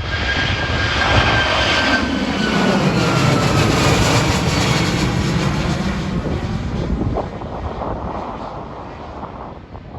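Boeing 737 MAX 9 jet passing on takeoff, its CFM LEAP-1B turbofans swelling to a peak about three to four seconds in and then fading away. A whine in the engine noise slides steadily down in pitch as it goes by.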